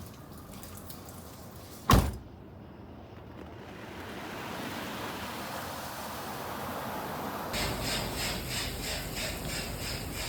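A single loud thump about two seconds in. Then the hiss of a PDQ LaserWash 360 Plus touchless car wash's high-pressure water spray builds up, and from near the end it turns into a rapid pulsing of about three beats a second.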